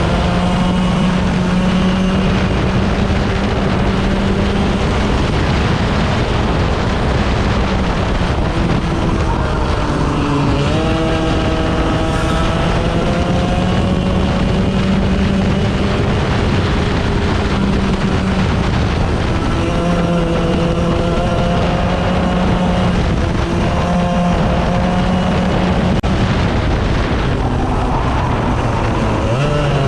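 A 100cc racing engine running hard on track, holding a high pitch for long stretches. It dips as it lifts off and climbs again as it accelerates, about ten seconds in and again near the end.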